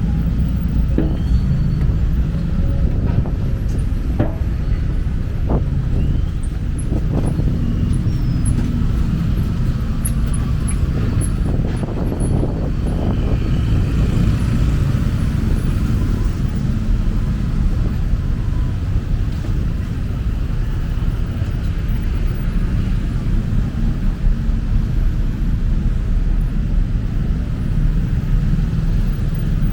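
Busy city street ambience: a steady rumble of road traffic with vehicles passing, and a few short knocks and clicks in the first half.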